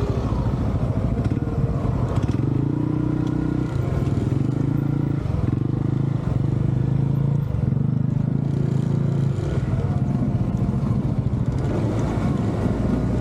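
Motorcycle engine running while riding, its pitch shifting up and down several times as the throttle opens and eases off.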